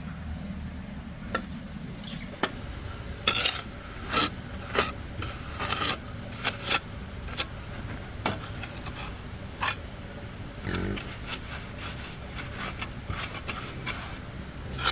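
An insect trilling steadily at a high pitch, with scattered sharp knocks and taps coming at irregular intervals.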